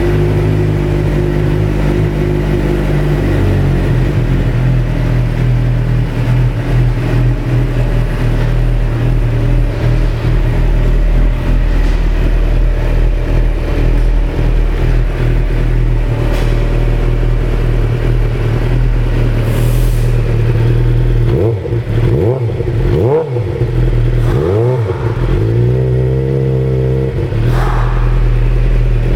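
2006 Suzuki GSX-R600's inline-four engine, fitted with an aftermarket exhaust, idling steadily. In the last third it is revved in about four quick blips, each rising and falling in pitch, before it settles back to idle.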